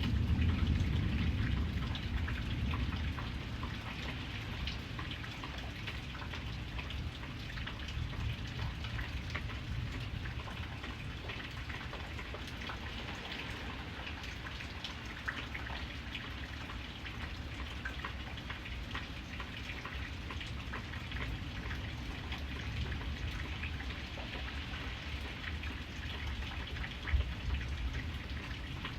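Steady rain falling, with many individual drops ticking on a hard surface. A low rumble of thunder dies away over the first few seconds, and one sharper drop or knock stands out near the end.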